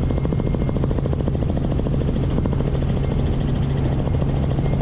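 Helicopter in flight, heard from inside the cabin: a steady drone with a fast, even pulsing.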